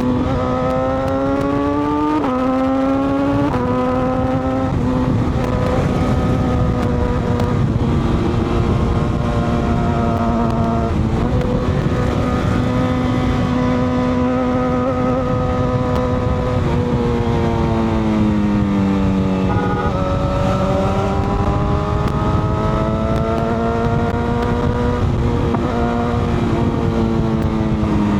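Sport-touring motorcycle engine under way: it pulls up through two quick upshifts, then cruises at steady revs. It backs off, picks up again and eases off near the end, with steady rushing noise underneath.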